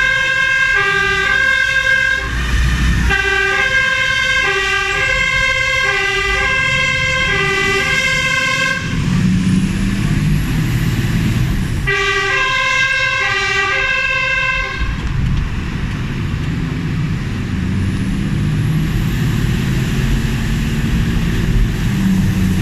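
Fire engine's two-tone siren sounding its alternating high-low notes in three spells, breaking off briefly about 3 seconds in, again from about 9 to 12 seconds, and stopping about 15 seconds in. The truck's engine and road noise run underneath.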